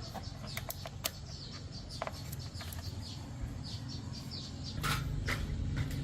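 Small birds chirping repeatedly, short high chirps scattered throughout, with a few sharp clicks over a steady low rumble.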